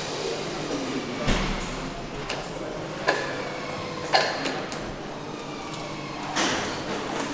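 Engine assembly workshop noise: a steady hum broken by four sharp knocks and clicks of tools and parts being handled.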